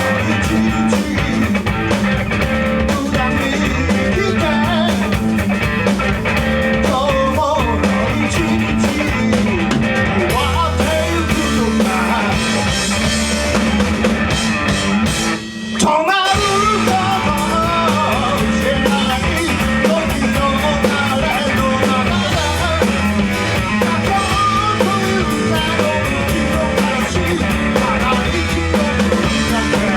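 Rock band playing live: guitar and drum kit with a singer, with a short break about halfway through before the band comes back in.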